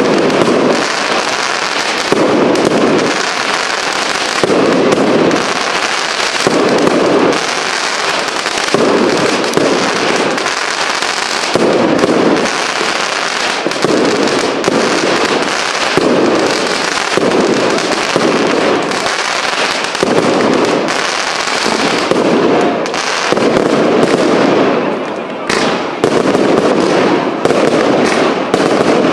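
Professional fireworks display: shells bursting in a dense, unbroken series of bangs and crackles, with a deeper boom about once a second.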